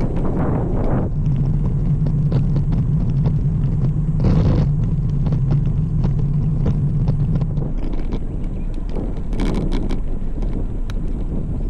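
Riding a road bike: wind buffeting the microphone and road rumble, with many small clicks and rattles throughout. A steady low hum runs from about a second in until past the middle, then stops.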